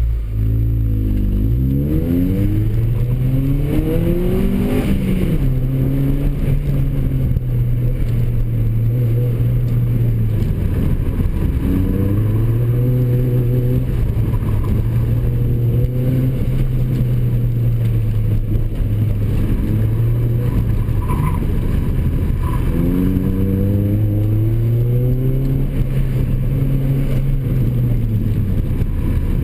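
2004 Honda Civic Si's 2.0-litre four-cylinder engine, fitted with a cold air intake and cat-back exhaust, heard from inside the cabin. It accelerates hard from a standstill, its pitch climbing in several steep runs up through the gears. It then rises and falls with the throttle, with further hard pulls about eleven seconds in and again near the end.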